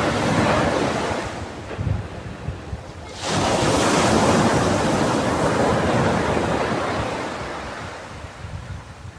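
Sea waves on a beach. A wash of surf fades out, and after a short lull a wave breaks suddenly about three seconds in, then its foaming rush slowly dies away.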